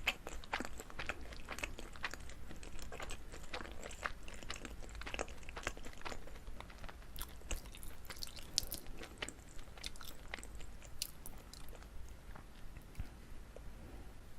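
Close-up chewing of a chewy Korean rice cake (jijilkku-tteok) filled with gondre greens: a stream of sticky, wet mouth clicks that thins out over the last few seconds.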